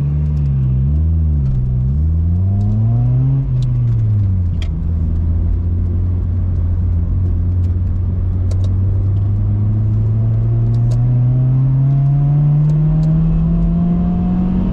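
Honda Civic EP2's 1.6-litre four-cylinder engine through an aftermarket cat-back exhaust, the revs rising and falling several times, then a steady drone that climbs slowly in pitch near the end as the car gathers speed.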